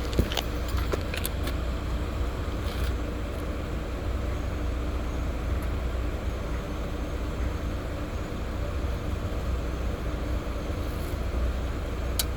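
A motor vehicle's engine running at a steady idle, a constant low rumble, with a few sharp clicks and knocks in the first second or so and one more near the end.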